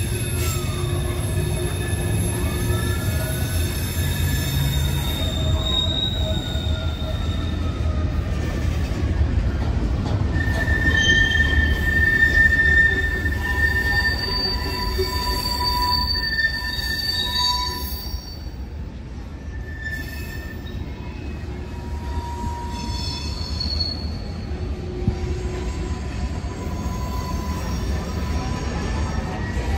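Freight cars rolling past, steel wheels on rail giving a steady low rumble with wheel squeal on top: several high, thin tones that hold for a few seconds or slide up and down in pitch. The sound eases briefly about two-thirds of the way through.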